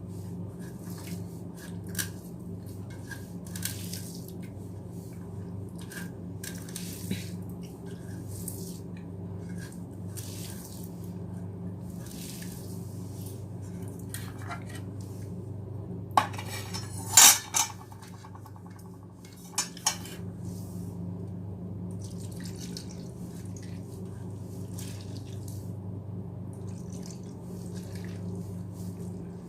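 Someone eating, with small chewing and mouth sounds over a steady low hum. Dishes clatter sharply a few times just past the middle.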